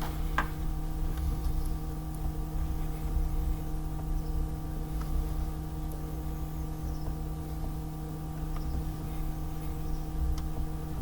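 A steady mechanical hum of several constant tones over a low rumble, with a few faint clicks.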